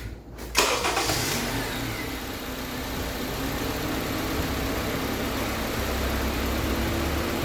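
A 2013 Honda CR-V's 2.4-litre four-cylinder engine starts about half a second in, flares briefly, then settles to a steady idle. It is the first start after an oil change, run to circulate the fresh oil.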